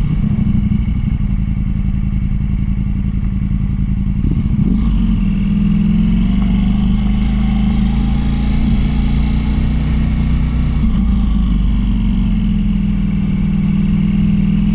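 Motorcycle engine running steadily under way, heard from the rider's seat. The engine note shifts about five seconds in and again near eleven seconds.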